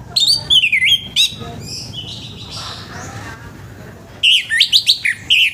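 Orange-headed thrush singing in two loud bursts of quick sliding notes, one just after the start and another about four seconds in, with fainter bird notes in between.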